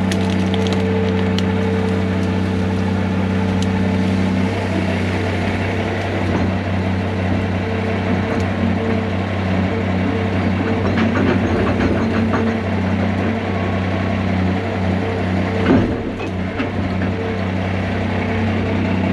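Heavy diesel equipment engine running steadily, with scattered clicks and knocks and one louder knock near the end.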